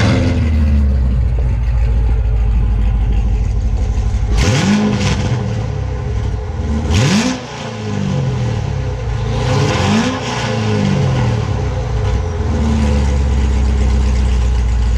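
Heavily modified C7 Chevrolet Corvette V8 idling, then revved three quick times, each rev rising sharply and falling back to idle, about two and a half seconds apart. The revs are capped near 5,000 rpm, the car's limit when parked.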